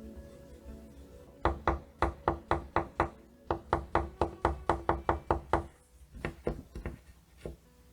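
Uni Posca paint marker being shaken, its mixing ball knocking inside the barrel in a fast, even rattle of about five clicks a second for about four seconds. A few slower clicks follow near the end.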